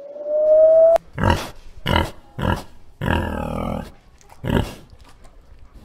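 A grey wolf's howl, a single held note rising slightly in pitch, cuts off about a second in. A domestic pig then grunts several times: short grunts and one longer, drawn-out one.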